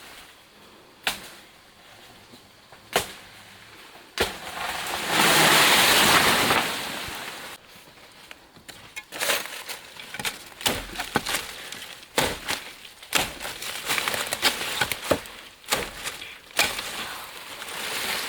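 A run of sharp knocks and clicks, with a few seconds of hissing about five seconds in and a dense patter of quick clicks in the second half.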